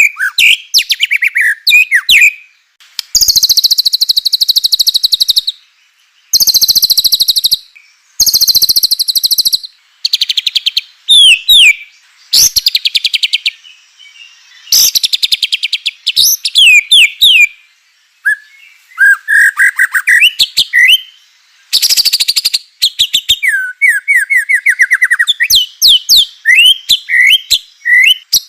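White-rumped shama (murai batu) singing loudly in a fast, varied song: several dry rattling trills of one to two and a half seconds each, alternating with quick whistled slurs and warbled phrases, with short pauses between.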